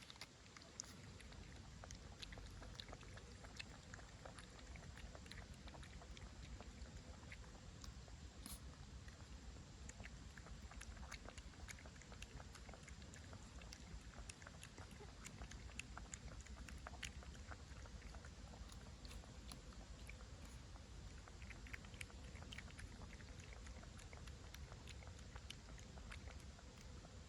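Puppy chewing or eating, faint small wet clicks and smacks coming irregularly.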